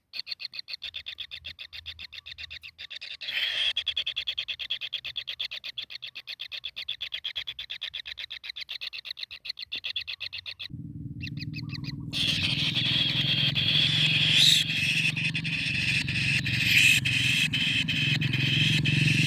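Kingfisher giving a long, fast, even series of harsh chattering call notes, louder from about three seconds in. The calling stops about ten seconds in, and a steady low rumble with hiss and scattered clicks takes over.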